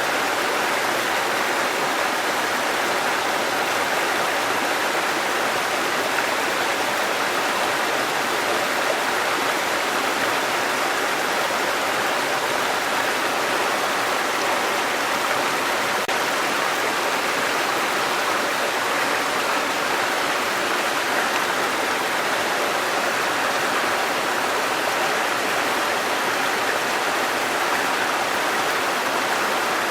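Waterfall and fast-running stream water, a steady rushing with no breaks or changes.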